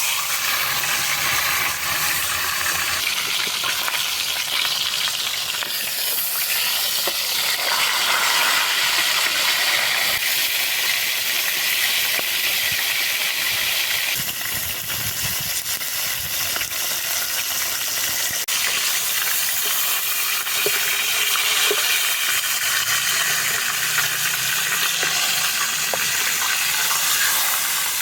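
Food sizzling in hot oil in a pan: a steady, loud frying hiss with scattered crackles and pops.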